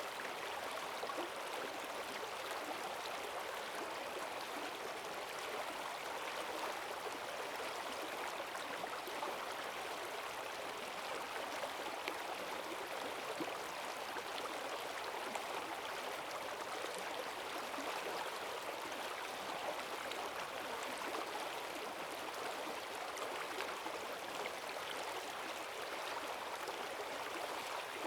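Forest stream swollen by heavy rain, its strong current rushing and gurgling steadily over the streambed.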